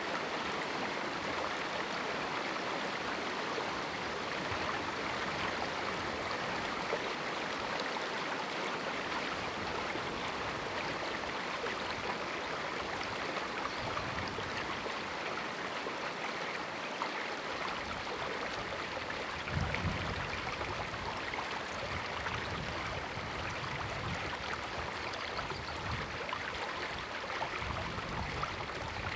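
River in a small rocky canyon, water rushing steadily. A low rumble comes and goes through the second half.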